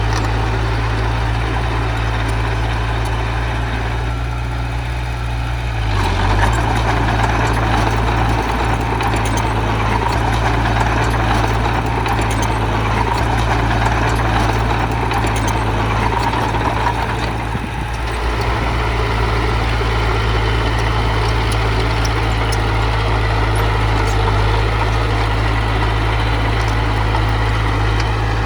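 Heavy machine's diesel engine running steadily, easing off briefly about four seconds in and again near eighteen seconds, then picking up each time.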